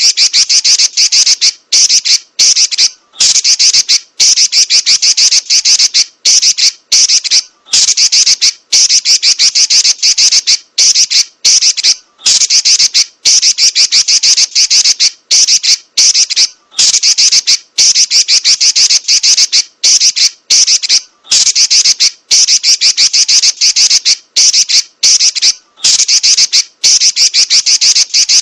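Female Pekin robin (red-billed leiothrix) giving a rapid, high-pitched rattling chatter, in runs of about one to two seconds broken by brief pauses and repeated over and over.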